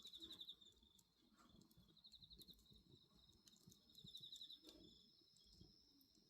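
Faint night insects, crickets, chirping: a steady high trill with a pulsed chirp that comes back about every two seconds. Scattered soft crackles from a bonfire come through underneath.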